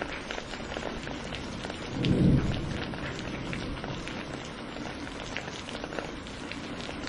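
Steady rain falling, with many short drop ticks over an even hiss. About two seconds in, a brief low rumble of thunder swells up and fades within a second.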